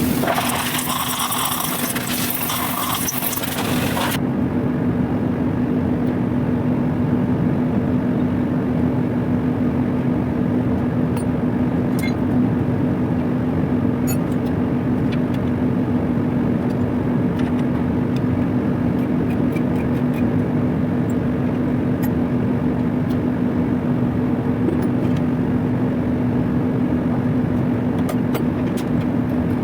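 Industrial machinery running with a steady, loud hum and a strong steady tone. A loud hiss like escaping air covers the first few seconds and cuts off suddenly, and faint scattered clicks come later.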